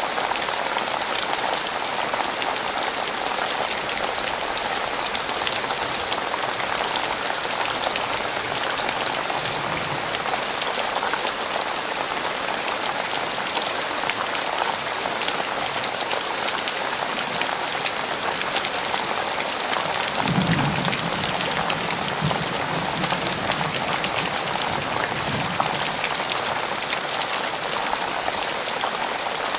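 Heavy rain falling steadily in a dense, even patter, with a low rumble about two-thirds of the way through.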